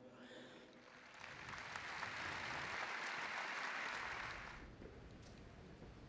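Large crowd applauding faintly, swelling about a second in and dying away after about four and a half seconds.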